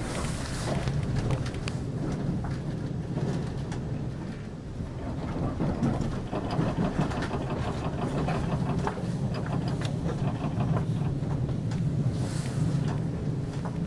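Cabin noise of a JR West 381 series limited express electric train running at speed: a steady rumble of wheels on rails, with frequent clicks and rattles. A brief rush of hiss comes about twelve seconds in.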